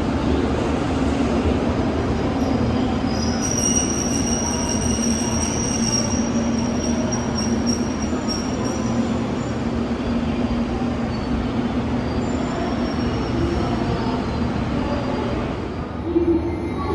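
Train moving along a station platform with steady wheel-on-rail rumble and a high-pitched wheel squeal from about three seconds in until near the middle.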